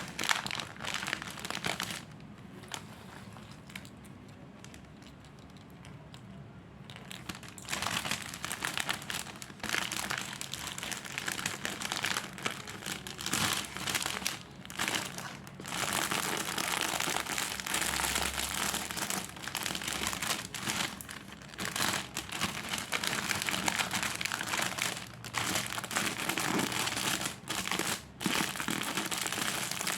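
Plastic snack packets and wrapping crinkling as they are handled. The rustling drops away a couple of seconds in, picks up again after about five seconds, and runs on with brief breaks.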